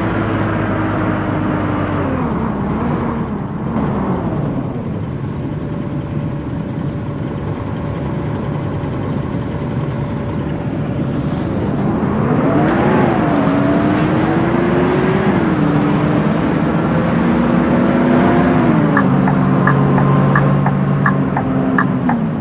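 Scania K230UB city bus's engine and automatic gearbox running under way, the engine note rising with acceleration and dropping at gear changes, with a steady cruising stretch in the middle. A fast, regular clicking of about three a second starts near the end.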